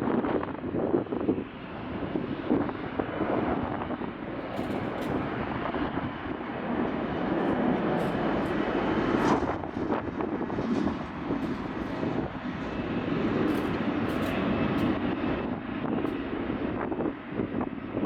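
Jet airliner's engines running at takeoff power, heard as a steady loud rush. There are short light clicks from about four seconds in.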